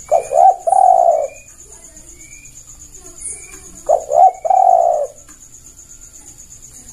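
Spotted dove cooing: two phrases about four seconds apart, each a couple of quick notes running into a longer coo. Faint short high chirps from another small bird sound between them over a steady high hiss.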